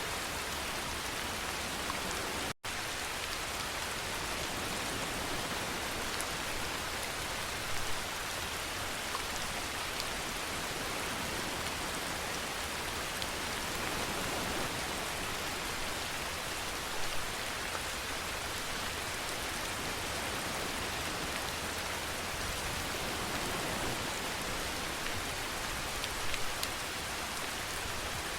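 Steady rain falling on a surface, an even hiss throughout, with a few slightly louder spatters. It cuts out for a split second about two and a half seconds in.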